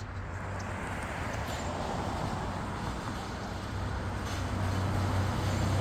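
Motor vehicle noise growing gradually louder, a steady rush with a low engine hum that strengthens toward the end.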